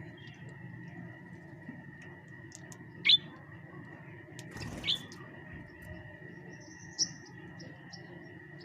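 A small bird chirping: three short, sharp calls a couple of seconds apart, over a steady high-pitched hum.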